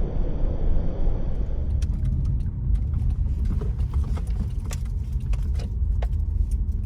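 A car on the move, heard from inside: a steady low rumble of engine and tyres. From about two seconds in, frequent small rattles and clicks are heard.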